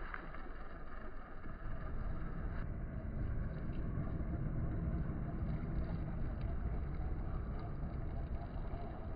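Toy RC rock crawler driving through water: its small motor and wheels churning water in a steady rushing sound that gets louder about a second and a half in.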